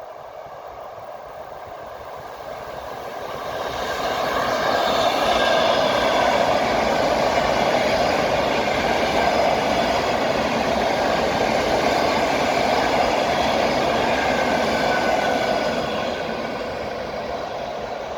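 Electric passenger train passing at speed. The rumble of its wheels on the rails builds about three seconds in, holds steady for about twelve seconds, then eases off near the end.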